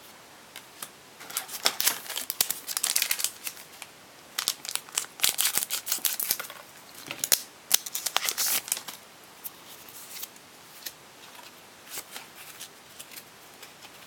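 Foil wrapper of a Pokémon trading card booster pack being torn open and crinkled, in bursts of crackly rustling over several seconds, then only faint scattered rustles and clicks.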